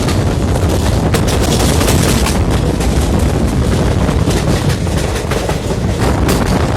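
A moving train, running with a steady low rumble and a rapid, irregular rattle and clatter, with wind buffeting the microphone.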